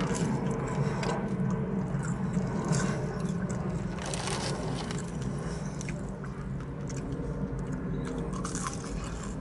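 A person chewing French fries close to the microphone, with scattered small crunches and mouth clicks over a steady low hum.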